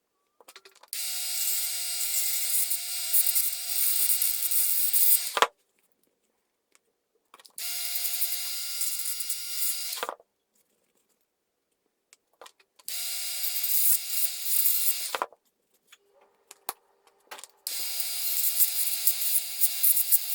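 Small electric grinder running in four separate bursts of a few seconds each, a steady whine under a hissy grinding noise, each stopping sharply. It is grinding the ends of a diecast model's metal axle so the wheels can come off.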